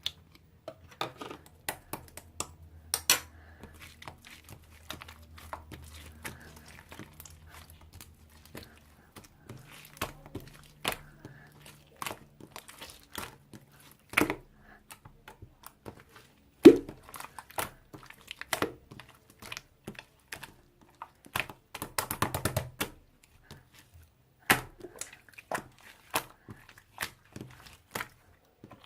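Slime being squeezed, stretched and poked by hand, giving irregular sticky clicks, snaps and small air-bubble pops, with a quick run of clicks a little past two-thirds through.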